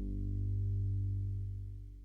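The last sustained guitar chord of an acoustic folk song, low notes ringing and slowly fading away as the song ends.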